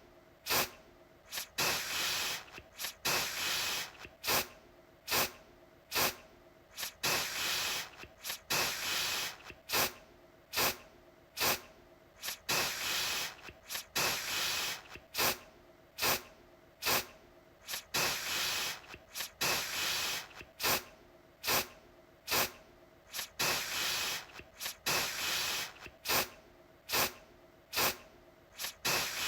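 Aerosol deodorant can spraying in repeated short bursts, roughly one a second, each a sharp-starting hiss, some brief and some held for close to a second.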